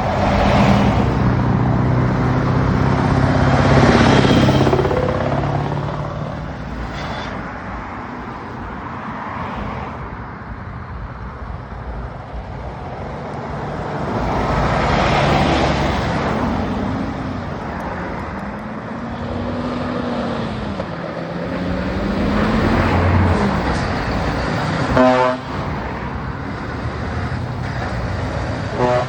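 Heavy trucks driving past one after another on loud open-pipe exhausts, their engine note swelling and falling as each passes and rising and falling with the revs. An air horn sounds briefly near the end.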